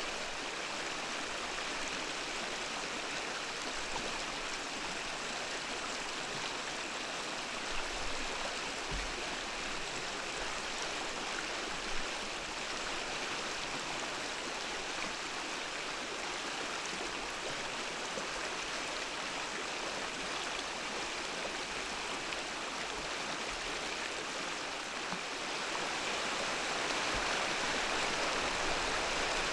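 Mountain stream flowing: a steady rush of water that grows slightly louder near the end, with a couple of brief low bumps.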